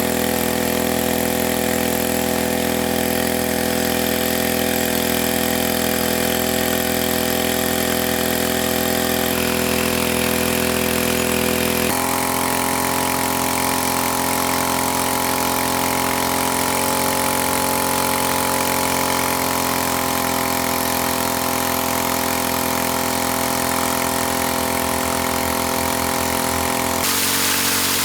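Small engine running steadily at a constant speed, its tone changing abruptly a few times.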